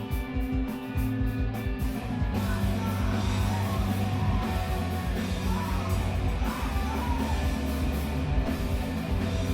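A screamo band playing live. A guitar figure plays alone for about two seconds, then the full band comes in loud with shouted vocals.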